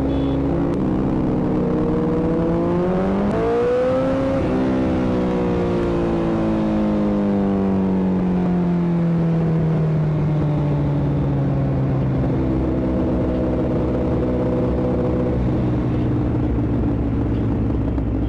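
Motorcycle engine running, its revs climbing about three to four seconds in, then falling away slowly over the next several seconds and settling to a steady lower speed.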